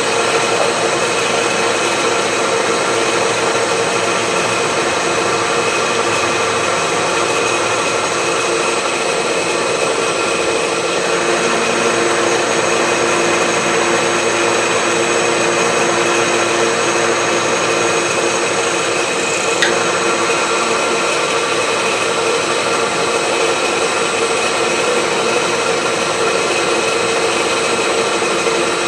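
Milling machine running steadily, its cutter working along a steel wood-chipper blade, with a constant whine of several steady tones over a grinding hiss. A single small click about 20 seconds in.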